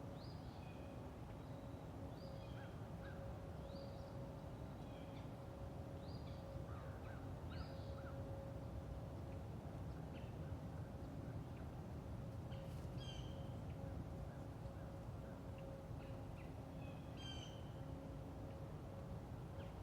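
Forest ambience: small birds giving short, high chirping calls every second or two, over a steady low rumble and a faint continuous hum.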